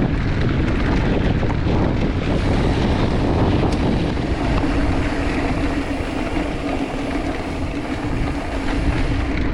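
Mountain bike rolling over a dirt truck trail: a steady rush of tyre noise on the gravel surface mixed with wind buffeting the camera microphone.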